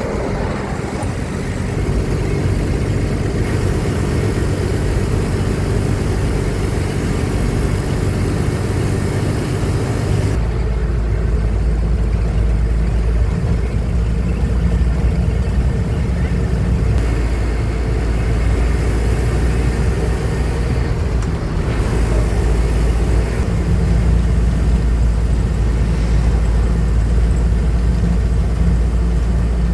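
Truck engine running while driving, a steady low hum with road noise; about ten seconds in the engine note changes, the deep rumble growing stronger and the hiss fading.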